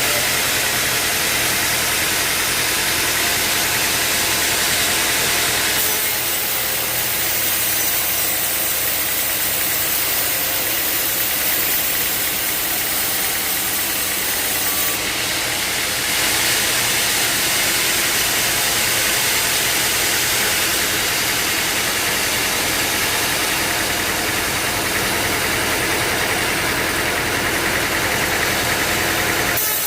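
Sawmill machinery running steadily: a motor's constant hum under a broad hiss. The sound shifts slightly about six seconds in and again about sixteen seconds in.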